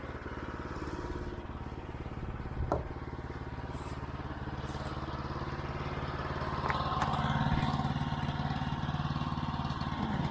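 Woodland Mills HM122 band sawmill's 9.5 hp gasoline engine running steadily, with a single knock about a quarter of the way in. The engine gets louder from about two-thirds of the way through.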